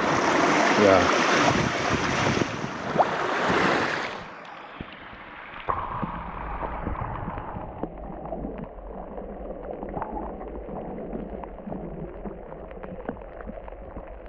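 Mountain stream rushing close by. About four seconds in, the sound drops and turns muffled and dull: a low rumble with small scattered clicks and no treble left.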